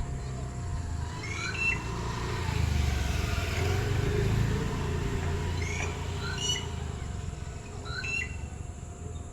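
Red-whiskered bulbul calling: three short phrases of quick rising whistled notes, about a second in, near the middle and near the end. Under them a low rumble swells and fades around the middle.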